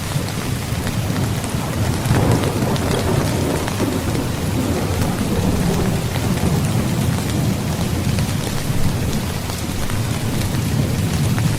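Steady heavy rain falling, with thunder rumbling low and continuously beneath it and swelling a few times.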